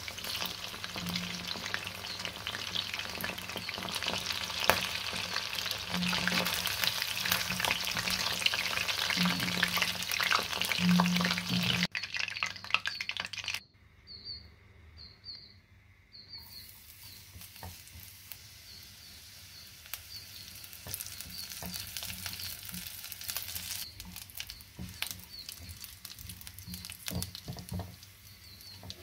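Chicken pieces deep-frying in hot oil, a steady dense sizzle and bubbling as they are turned with a slotted spoon. About twelve seconds in the sound cuts away to near quiet, then a lighter sizzle of chopped garlic and curry leaves frying in a little oil in a pan.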